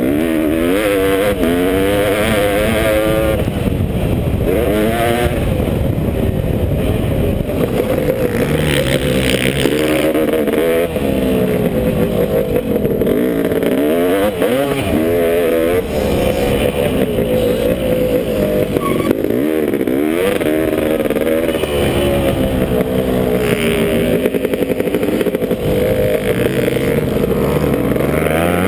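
Honda CR500 single-cylinder two-stroke engine in a KTM frame, revving hard and dropping back over and over as the throttle is opened and closed and the gears change.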